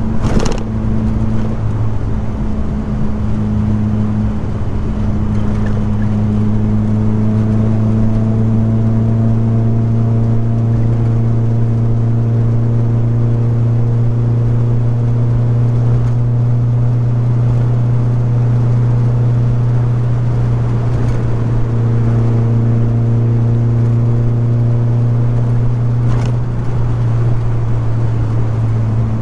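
Car engine running steadily as the car drives along at an even speed: a constant low drone that barely changes in pitch, with a brief click just after the start.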